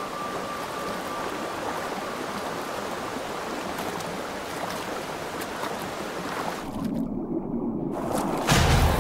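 Salmon stream water rushing steadily. About seven seconds in the sound briefly goes dull, and near the end a louder, deeper rush of water comes in.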